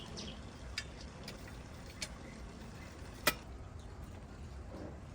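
Three short, sharp taps, the loudest near the end, over a low steady background rumble.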